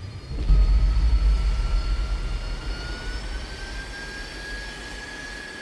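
Jet airliner engines: a heavy low rumble swells about half a second in and slowly fades, under a high whine that rises gently in pitch.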